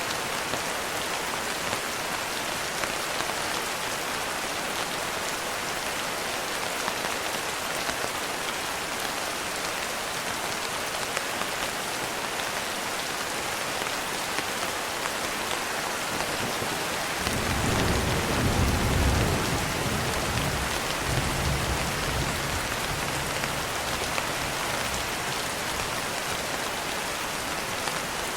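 Steady, dense rain. Past the middle, a low rumble of thunder swells for a couple of seconds, then fades away over a few more.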